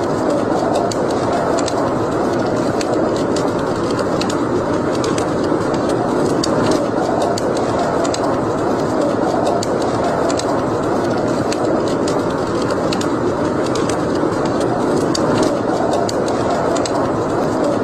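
Wood fire burning in a fireplace: a steady rushing noise with frequent small crackles and pops throughout.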